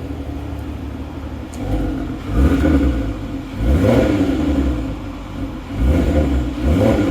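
Passat R36 3.6-litre VR6 engine exhausting through a custom 3-inch resonated catback and Varex valved muffler, idling and then revved in several quick throttle blips, each rising and falling in pitch.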